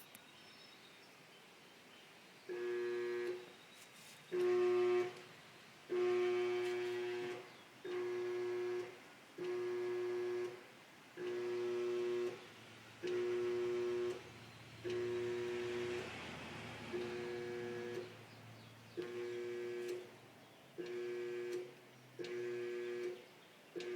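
GE clothes dryer giving a steady, pitched electrical buzz in about a dozen one-second spells with short gaps, while its drum does not spin. The uploader traced this fault to lint and dust build-up inside the dryer keeping its switches from working properly.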